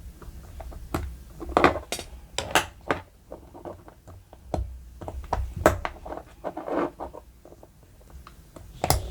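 Irregular small clicks and short scrapes as a hair trimmer's blade and its spring are worked back into place by hand.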